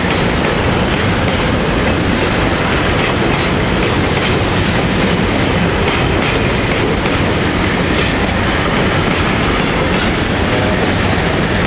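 Loaded coal gondola wagons rolling past close by: a steady rolling rumble of wheels on rail, with repeated clicks as the wheels cross rail joints.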